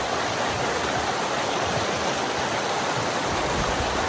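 Rain-swollen stream rushing steadily, a continuous even wash of water noise.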